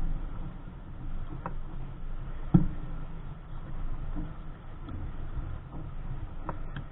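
Wind rumbling on the microphone and water washing against the hull of a small sailboat under way in waves, with three sharp knocks, the loudest about two and a half seconds in.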